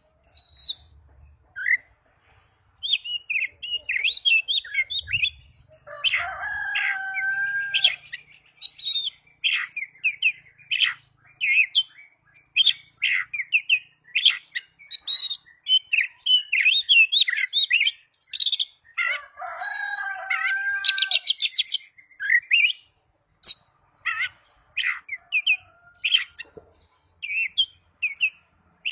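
Oriental magpie-robin (kacer) singing a fast, varied song of chirps, trills and whistles in phrases with short pauses, with a lower, longer warbled phrase twice.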